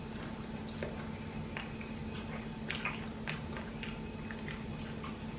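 A person chewing a mouthful of taco, with a few scattered crunches and wet mouth clicks.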